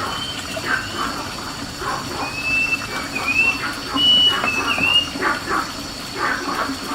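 Animal calls repeating throughout, with a run of short high whistling chirps in the middle, over a steady high-pitched tone.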